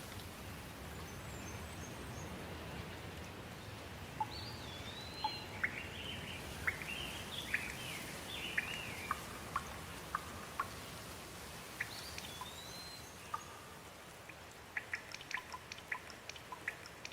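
Steady rain with birds calling over it: a couple of rising-and-falling whistles and a run of short chirps in the middle, then a cluster of sharp drips near the end.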